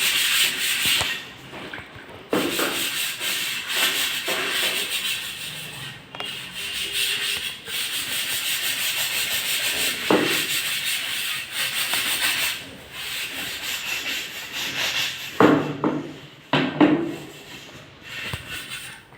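Fridge surfaces being wiped and scrubbed by hand: a steady rasping rub in stretches of a few seconds with brief breaks, and a few knocks near the end.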